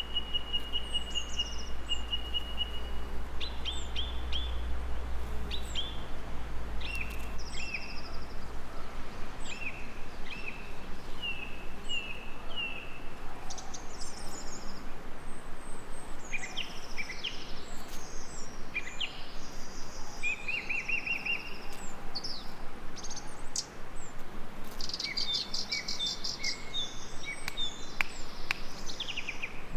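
Songbirds singing and calling: many overlapping short chirps, whistled notes and trills throughout, over a steady background hiss.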